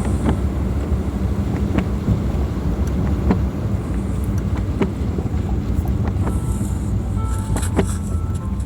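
Car on a wet road heard from inside the cabin: a steady low rumble of engine and tyres, with scattered short ticks.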